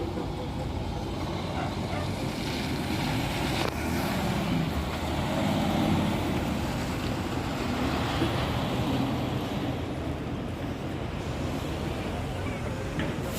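Semi-truck tractor unit's diesel engine running with a steady low drone, and one brief knock a little under four seconds in.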